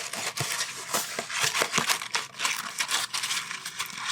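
Close-miked paper crinkling and rustling: a dense, irregular run of small crackles, as a paper fry bag or wrapper is handled for ASMR.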